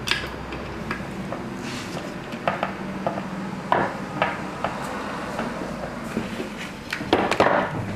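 Scattered light clicks and knocks of small parts being handled while a screw on the laser-sensor mount is adjusted with a screwdriver, with a louder cluster of knocks near the end, over a low steady hum.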